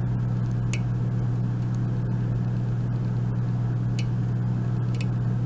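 Steady low hum throughout, with a few faint, light clicks as a hook pick works the pins of an Abus euro cylinder.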